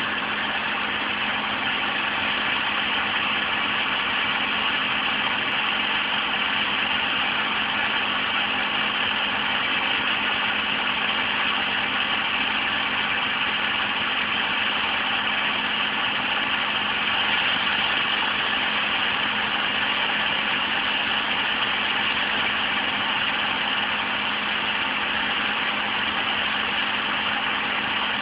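A steady, unchanging hum with a constant hiss, like a running fan or motor, with no breaks or changes in level.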